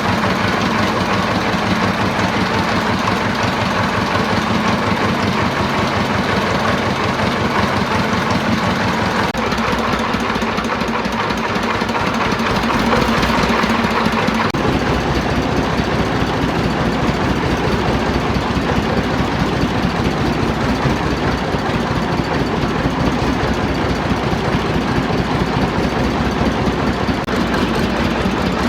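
A freshly rebuilt engine running steadily after internal repair and reinstallation, with a fast, even firing pulse; its note shifts briefly about halfway through.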